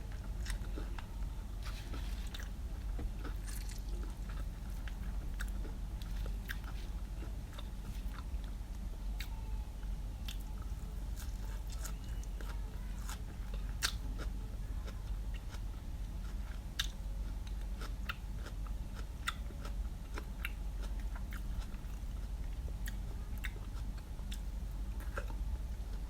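Close-miked chewing and biting of food, with many small crunchy clicks scattered through it, over a steady low hum.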